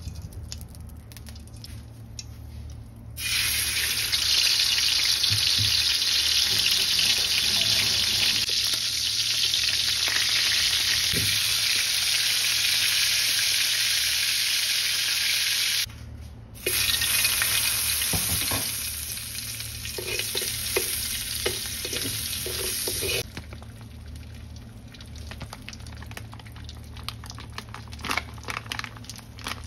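A burger patty sizzling as it fries in hot oil in a wok. A loud, steady sizzle starts about three seconds in and breaks off for a moment midway. It drops to a quieter, crackling sizzle for the last few seconds.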